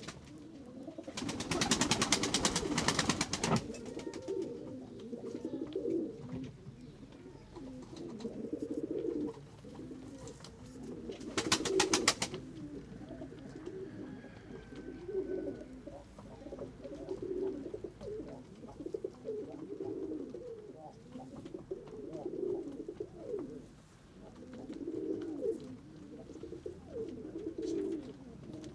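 Pigeons cooing in repeated low, warbling phrases, with two loud bursts of rapid wing flapping, one about a second in lasting a couple of seconds and a shorter one around eleven seconds in.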